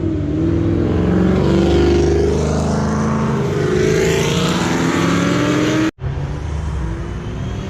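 Muscle car engines revving and accelerating, the exhaust pitch rising and falling. It cuts off abruptly about six seconds in, and a second stretch of engine noise follows.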